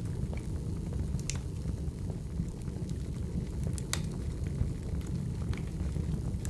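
Burning firewood crackling: a steady low rumble with sharp pops scattered through it, the loudest about four seconds in.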